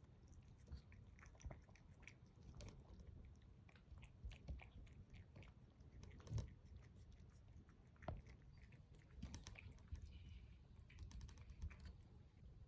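Cats eating canned tuna, heard as faint, irregular wet chewing and lip-smacking clicks.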